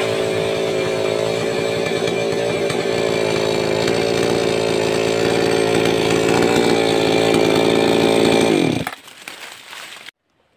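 588X two-stroke chainsaw running at high, steady revs, then dropping in pitch and stopping about nine seconds in.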